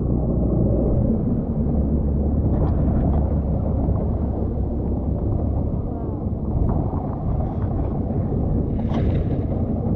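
Two-stroke Johnson Sea Horse outboard on a small boat running steadily at low speed, a low rumble mixed with water and wind noise, with faint voices now and then.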